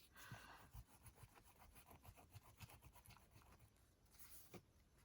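Faint, rapid back-and-forth scratching of a rubber eraser on paper, rubbing out a mark on a journal page.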